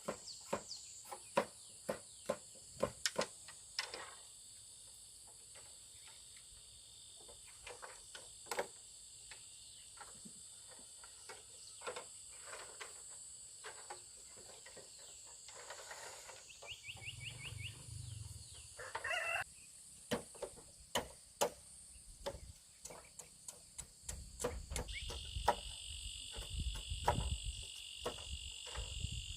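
A steady insect chorus trilling in several high pitches, with frequent sharp knocks and clicks scattered through it.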